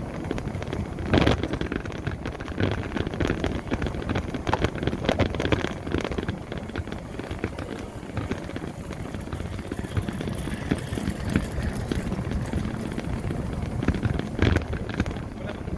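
Wind buffeting the microphone and road rumble while riding an electric motorbike, with a few sharp knocks from bumps, the loudest about a second in and near the end.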